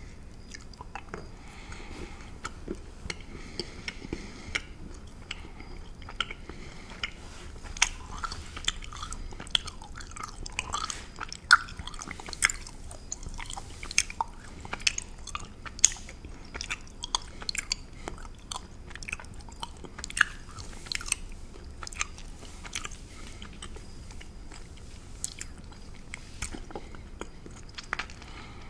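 Close-miked chewing of a chocolate candy: sticky, wet smacks and sharp mouth clicks in an irregular run, thickest through the middle of the stretch.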